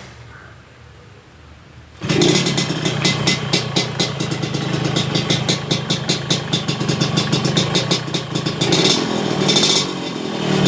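Yamaha RX-King two-stroke single-cylinder engine catching about two seconds in and running through an aftermarket 'udang lobster' expansion-chamber exhaust, with a fast crackling exhaust beat. It is revved briefly twice near the end.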